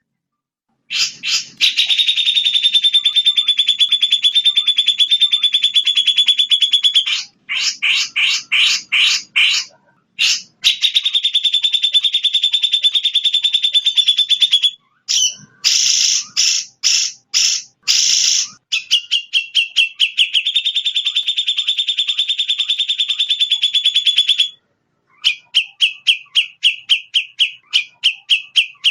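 Recorded songbird song of the kind played as masteran to train songbirds: long, rapid, high trills broken by short gaps and bursts of separate chirps, ending in a run of quick repeated notes.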